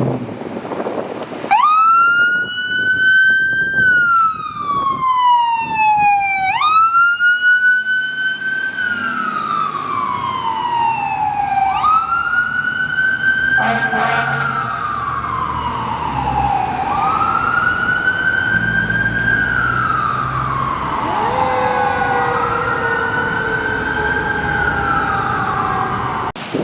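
Fire apparatus siren starting up a second or so in and then wailing, each cycle a quick rise followed by a long slow fall, about every five seconds. A second, lower-pitched siren wail joins about two-thirds of the way through, over a low engine rumble.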